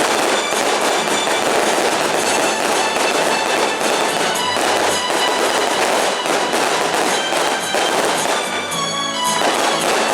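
Victory fireworks going off in a dense, continuous crackle of many small bursts, with music playing underneath.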